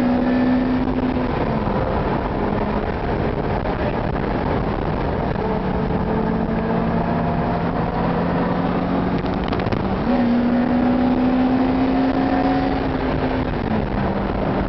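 Lotus Elise's four-cylinder engine cruising, heard inside the cabin over steady road and wind noise. The engine note drops in pitch about a second and a half in, climbs back about ten seconds in, and drops again near the end.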